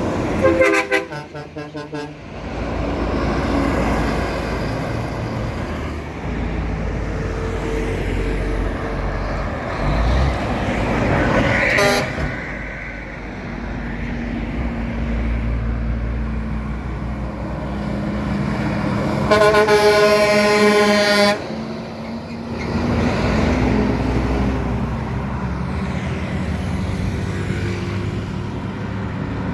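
Truck engine and road noise rumbling steadily, with a vehicle horn sounding twice: a short, broken honk about a second in, and a loud steady honk lasting about two seconds around two-thirds of the way through.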